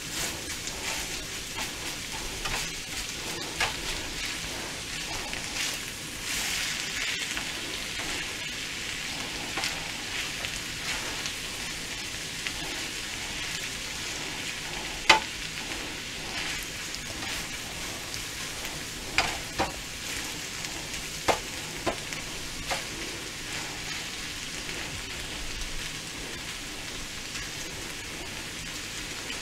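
Ground beef and minced onion sizzling steadily in a skillet while being stirred with a spatula, the onion cooking down. A few sharp taps and scrapes of the spatula against the pan stand out, most of them in the second half.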